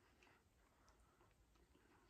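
Near silence, with a few faint, soft mouth clicks from closed-mouth chewing of noodles.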